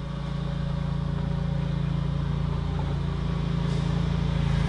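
A motor vehicle engine running steadily, growing louder over the first second.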